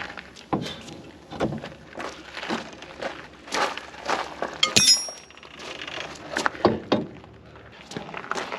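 Irregular knocks and clinks of hand tools and metal parts being handled, with one sharp, ringing metallic clink about halfway through.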